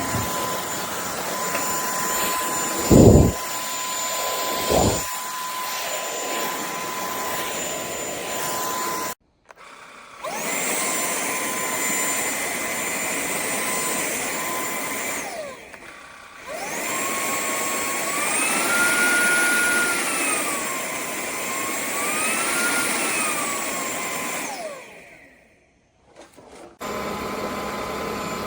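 KCLASO cordless stick vacuum's motor running with a steady whine, with two heavy thumps in the first five seconds. It cuts off about nine seconds in and spins back up, its pitch steps up and down twice, then it stops again and restarts near the end.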